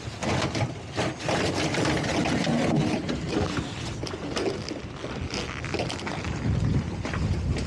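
Wind buffeting the microphone, with scattered irregular knocks and clatter.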